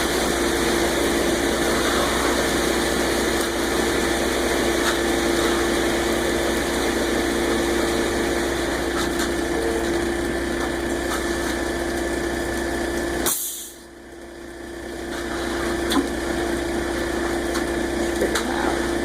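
Steady engine running, most likely the concrete mixer truck's, with a constant hum. About two-thirds of the way through the sound drops out suddenly and comes back over a couple of seconds, followed by a few light clicks.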